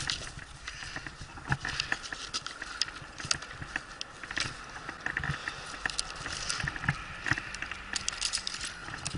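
Irregular clicks, scrapes and rustling from close handling, several sharp clicks a second at times, with no steady tone.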